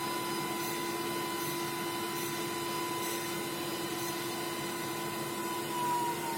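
LPKF ProtoMat S63 circuit-board drilling machine running, a steady high whine from its spindle over a lower hum. Near the end the whine begins to fall in pitch as the spindle slows.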